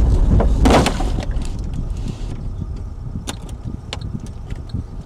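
Low vehicle rumble with a loud, noisy burst just under a second in. Sharp clicks and knocks follow as the level gradually falls.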